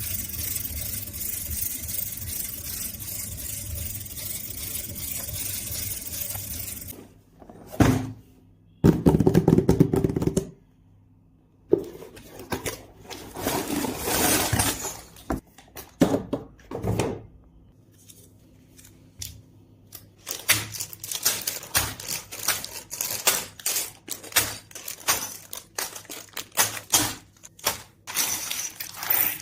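Steady noise, then a few heavy thuds, then many quick sharp clicks and clatters of small hard pieces: LEGO plastic bricks being handled and snapped together.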